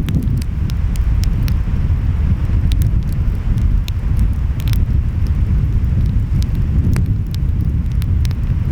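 A wood fire crackling, with scattered sharp pops, a few louder ones about halfway through. Underneath runs a steady deep rumble of ocean waves and wind.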